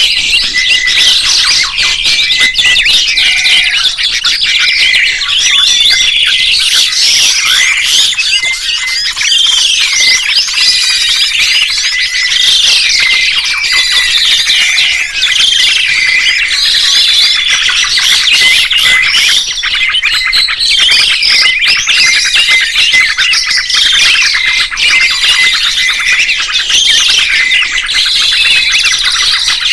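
Dense, continuous birdsong: many quick chirps, whistles and trills overlapping without a break.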